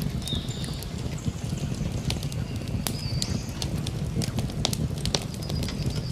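Campfire burning: irregular sharp crackles and pops over a steady low rumble, with a few faint high chirps now and then.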